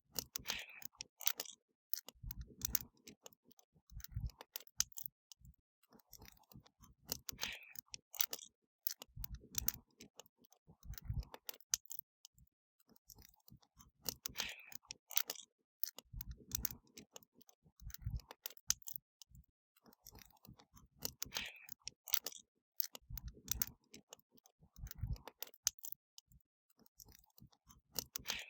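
Wood fire crackling: a steady run of sharp pops and snaps, with clusters of soft low thuds every few seconds. The same sequence comes back about every seven seconds, as in a looped recording.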